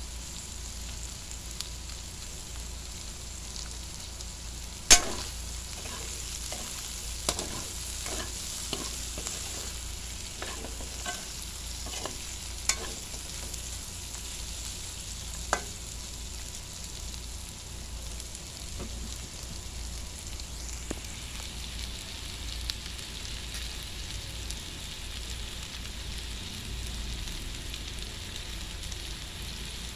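Chicken, sliced sausage, onion and chillies sizzling in a metal pan, with a steady hiss. A metal spatula stirs them and knocks against the pan a dozen or so times in the first half, the loudest knock about five seconds in.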